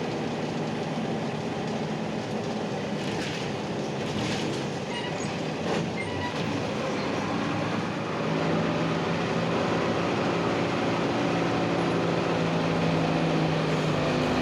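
Inside an Ikarus-260 city bus: its diesel engine running under way, with road noise and a few light rattles and clicks. About eight seconds in, the engine note grows louder and steadier as it comes under more load.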